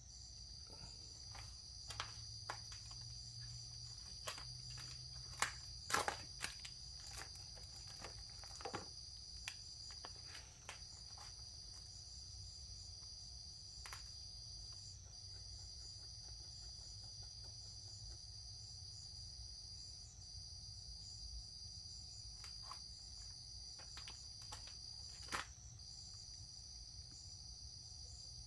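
Crickets trilling steadily at a high pitch, with a few short breaks, over scattered clicks and knocks from hands working; the loudest knocks come about six seconds in and again near the end.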